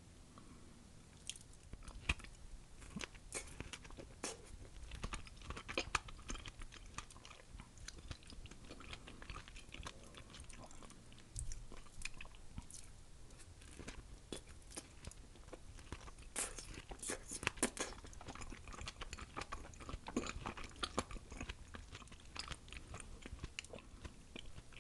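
Close-miked chewing and biting of ripe mango slices coated in Tajín chili-lime seasoning, a steady run of irregular mouth clicks and smacks.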